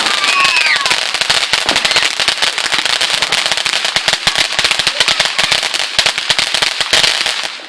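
Garden firework crackling: a dense, rapid run of sharp cracks that dies away near the end.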